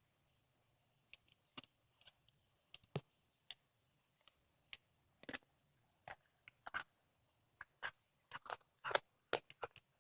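Cat chewing on a squirrel, with scattered sharp crunches of bone and flesh. They come faster and louder near the end.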